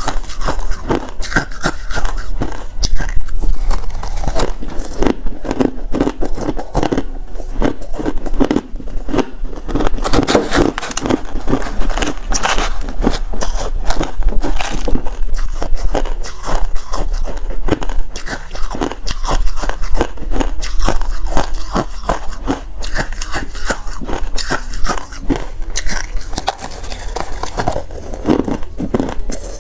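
Refrozen crushed ice being bitten and chewed: a loud, dense, irregular run of sharp cracks and crunches.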